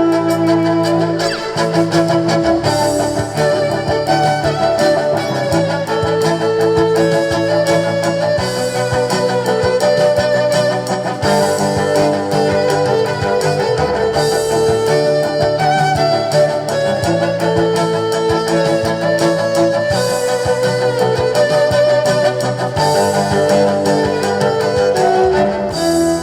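A live band playing an instrumental piece: a melody with vibrato over a steady bass line that changes note every couple of seconds.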